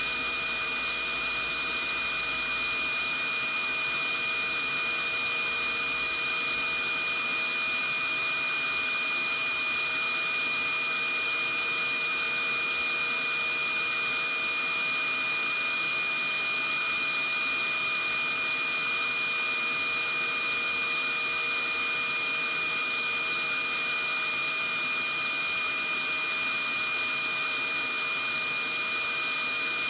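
Vacuum cleaner running steadily, a constant hiss of air with a steady high whine from its motor, used as white noise.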